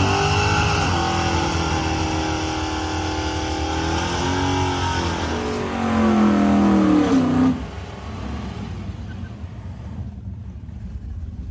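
Car engine revving, its pitch rising and falling several times, then dropping sharply to a quieter steady running sound about seven and a half seconds in.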